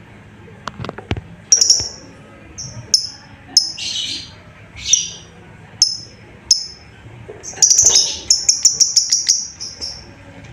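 Lovebird giving shrill, high chirping calls, used to call other lovebirds. The calls come one at a time, then a quick run of about a dozen chirps near the end.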